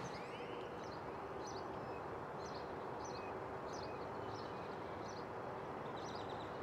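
A small bird chirping over and over, about one or two short high chirps a second, over a faint steady hum of distant traffic.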